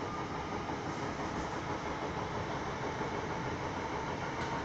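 Inside the carriage of an electric passenger train running along the line: a steady rumble of wheels and running noise, with a faint steady tone above it.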